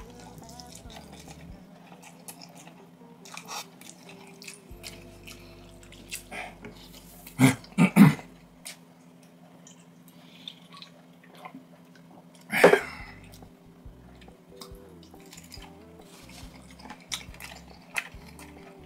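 A person chewing and eating instant noodles, with many small wet clicks throughout. There are two louder mouth sounds, a quick pair about seven and a half seconds in and one more about twelve and a half seconds in.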